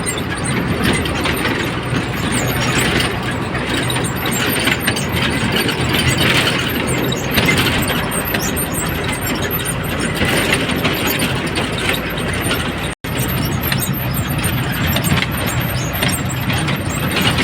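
Truck driving on the highway: a steady engine hum under constant road noise, cutting out for an instant about 13 seconds in.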